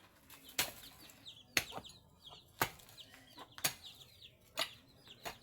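Heavy blows about once a second, a tool striking earth while a pole is set and packed in. Chickens cluck and cheep faintly between the strikes.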